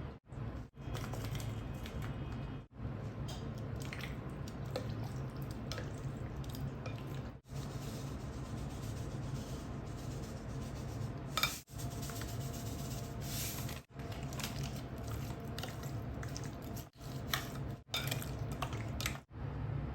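Kitchen cookware sounds: utensils clinking and scraping against pans and dishes over a steady low hum, broken by several abrupt cuts.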